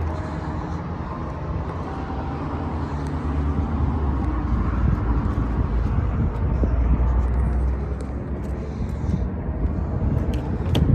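Vehicle engine running, a steady low rumble with outdoor noise over it.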